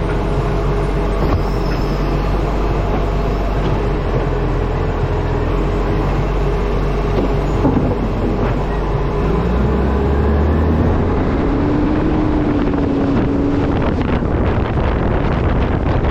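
Wind buffeting a microphone on the front of a moving truck, over steady road and engine noise. About nine seconds in, a tone rises in pitch and then holds steady.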